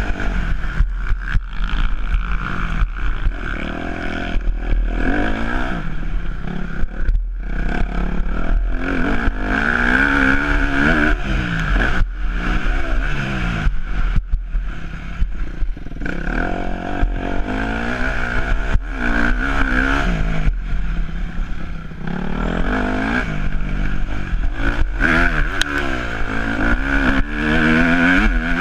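Yamaha YZ250F motocross bike's 250cc four-stroke single-cylinder engine revving hard, its pitch rising and falling over and over as the rider opens and closes the throttle around the track.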